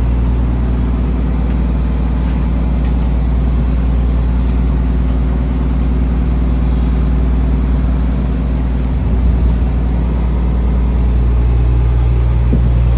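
A fishing trawler's diesel engine running steadily, a deep even drone with a faint high whine over it.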